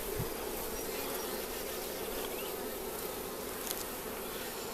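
Honeybees humming steadily around an opened hive, the mass of a colony buzzing together as its frames are inspected.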